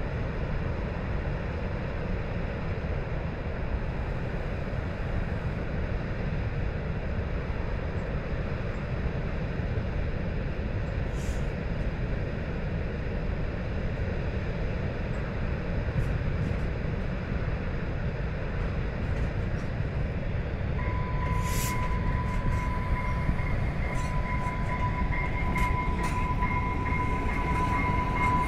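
DB Class 628.1 diesel multiple unit approaching slowly and drawing close, over a steady rushing roar that grows louder near the end. From about two-thirds of the way through, a steady high-pitched whine from the railcar joins in and strengthens as it nears.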